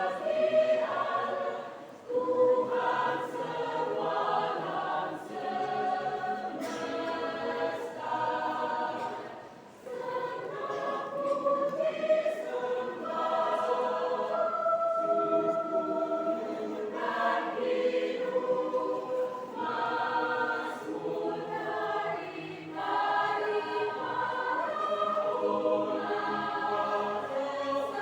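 Church choir singing a Christmas piece in parts, sustained phrases with brief breaks between them about two and ten seconds in.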